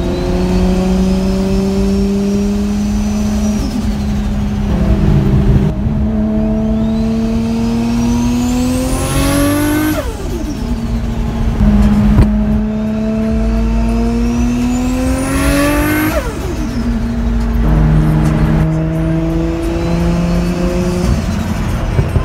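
Single-turbo Nissan Skyline GT-R engine (Garrett T04Z turbo, Tial 44 mm wastegate, Tomei titanium exhaust, no blow-off valve) heard from inside the cabin. It pulls hard twice under boost, each pull with a turbo whistle climbing steeply in pitch and cutting off suddenly at the shift. Between the pulls the engine drones steadily at cruise.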